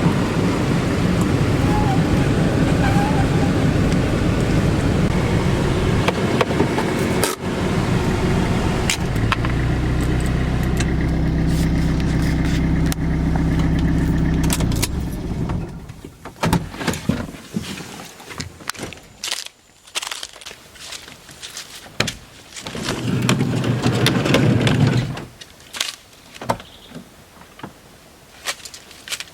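Van engine and road noise running steadily, with a low engine hum, then dropping away about halfway through. Scattered clicks and knocks follow, with a short low hum returning near the end.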